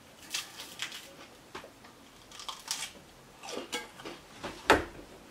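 Close-miked eating sounds: a scatter of short crunchy and wet chewing noises, with one sharper knock near the end.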